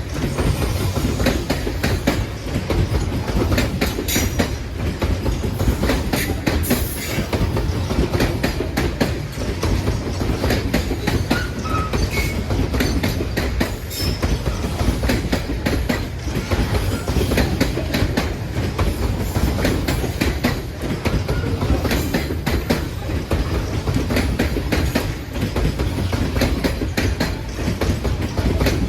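A freight train rolling past: a steady heavy rumble with a constant rapid clatter of wheels on the rails, and no horn.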